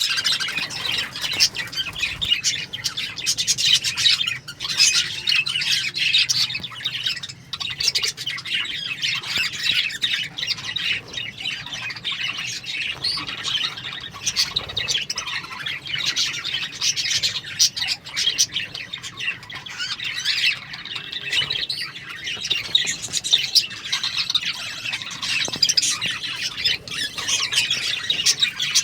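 A flock of budgerigars chattering: many birds chirping and squawking at once, an unbroken dense warble of high calls.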